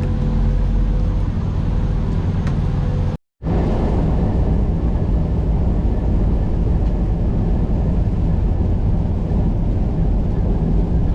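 Semi-truck diesel engine running, a steady low rumble. The sound cuts out for a moment about three seconds in, then resumes.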